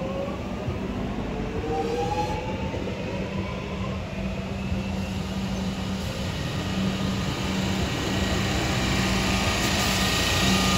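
Electric suburban trains. One pulls away with its traction motors whining up in pitch over a steady hum, then a Comeng train runs in on the adjacent track and its running noise grows louder near the end as it passes close.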